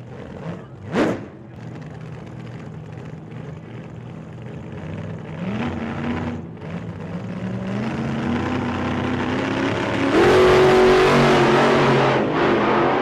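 Car engine running and revving, its pitch climbing in steps and loudest about ten seconds in, with a brief sharp rising whoosh about a second in.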